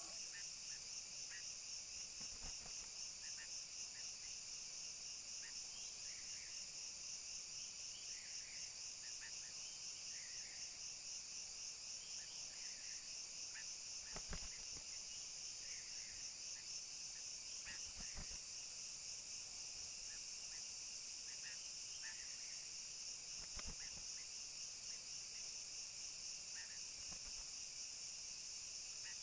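A steady, high insect chorus with a fine rapid pulse, with short bird chirps dotted through it and a few faint knocks.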